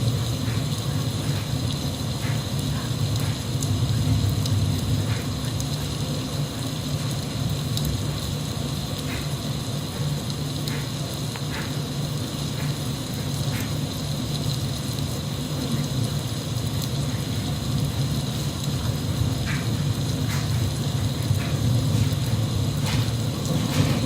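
Steady rain falling, with scattered drips ticking over a low, constant rush.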